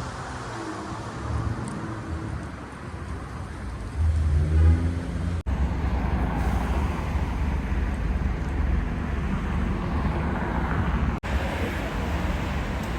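City street traffic noise: cars running past, with a low rumble that grows louder about four seconds in. The sound breaks off for an instant twice.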